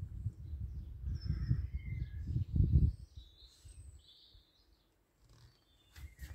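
Birds chirping outdoors, short high calls scattered through the first four or five seconds. Under them, an irregular low rumble during the first three seconds, and a couple of sharp knocks near the end.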